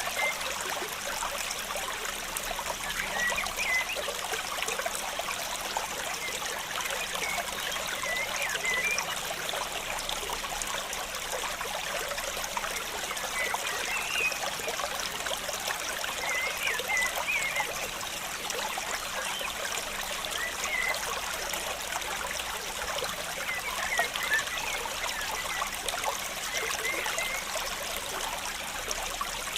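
Water trickling and splashing steadily, with short high chirping sounds every few seconds.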